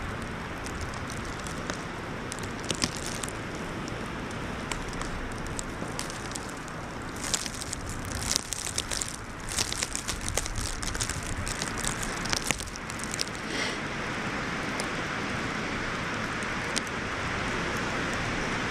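Steady wind noise, with several seconds of irregular crackling and rustling about halfway through.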